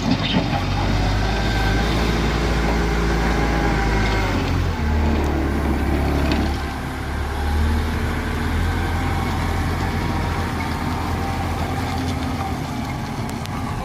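Heavy truck engine running hard under load. Its low drone shifts in pitch about five seconds in, then runs on steadily.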